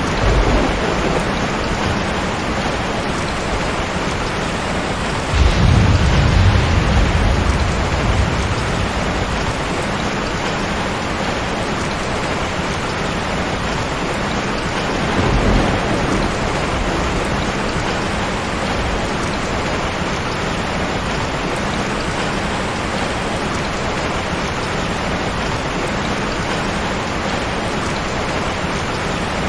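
Heavy rain falling steadily, with thunder rumbling low underneath: a brief roll right at the start, the loudest roll from about five to eight seconds in, and a shorter one around fifteen seconds in.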